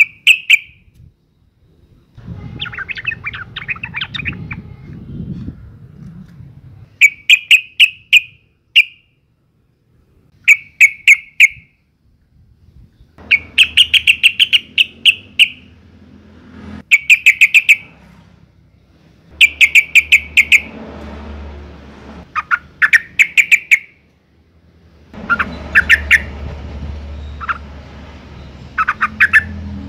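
Female yellow-vented bulbul (trucukan) calling in breeding condition: short bursts of quick, sharp chattering notes, one every two or three seconds. It is the kind of call used as a lure to set male bulbuls singing.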